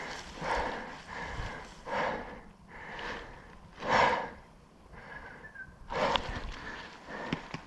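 A player's heavy breathing close to the microphone, in separate noisy breaths about once a second.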